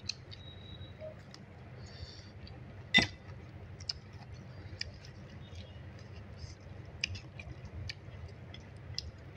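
Quiet eating sounds: chewing with many small wet mouth clicks and smacks, and one sharper click about three seconds in.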